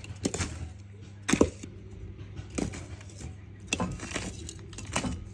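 Irregular knocks and clatters of hard objects being handled, five or six separate clusters, over a steady low hum.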